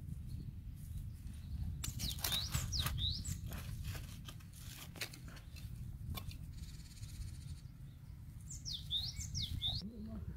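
Small songbird chirping in two quick runs of sweeping, up-and-down whistled notes, about two seconds in and again near the end, over a steady low rumble. A few scratchy clicks come from a hand weeder digging in soil.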